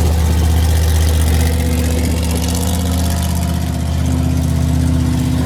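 Monster truck's engine running steadily with a deep, even note that rises slightly about four seconds in.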